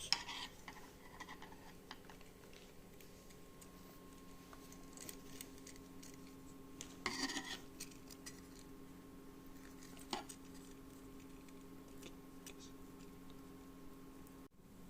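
Faint handling noises from wiring E27 lamp sockets: scattered light clicks and rubs of small parts and cable, a brief scrape about seven seconds in and a single click about ten seconds in, over a steady low hum.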